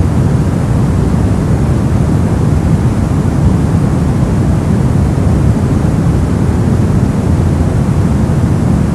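Brown noise: a steady, unchanging noise, deep and rumbling, with its weight in the low end and little hiss at the top.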